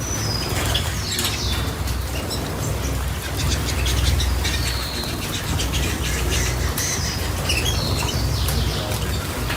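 Small cage birds chirping repeatedly in short high calls, mixed with many quick clicks and rustles, over a steady low hum.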